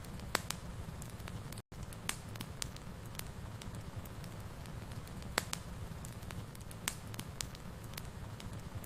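Wood fire in a fireplace crackling: irregular sharp pops and snaps over a steady low rumble. The sound cuts out completely for an instant about a second and a half in.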